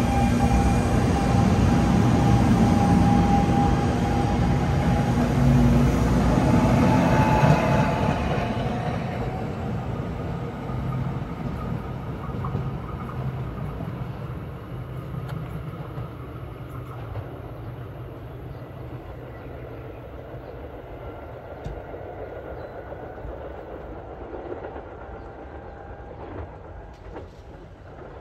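NJ Transit Arrow III electric multiple-unit commuter train running along the track with wheels clattering and a steady whine. It is loud for the first eight seconds or so, then fades steadily as it moves off into the distance.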